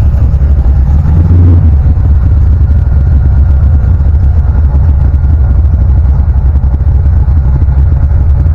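Car engine running with a loud, steady low rumble that swells briefly about a second and a half in.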